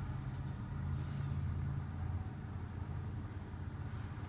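Audi Q7 3.0T's supercharged V6 idling with a steady low hum, heard from inside the cabin.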